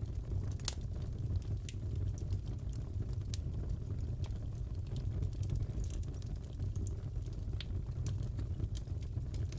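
Crackling fireplace: a steady low rumble of burning logs with scattered sharp pops and snaps at irregular intervals.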